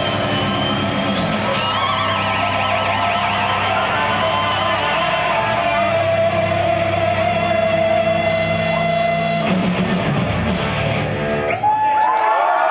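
Death metal band playing live: distorted electric guitars over bass and drums, with a long held lead-guitar note. Near the end the low rhythm section drops out and a guitar note is left ringing.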